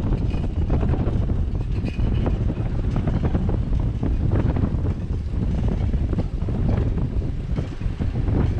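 Wind buffeting the microphone of a camera on a moving bicycle: a steady loud rumble, with frequent small knocks and rattles throughout.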